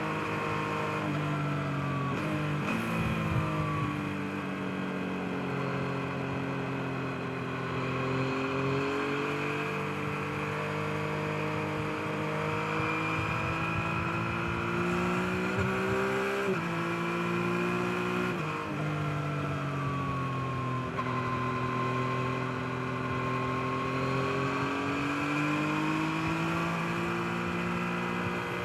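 Yamaha MT-09's 890 cc inline three-cylinder engine under way: its pitch climbs and falls smoothly with the throttle, with a few sudden pitch changes from gear shifts.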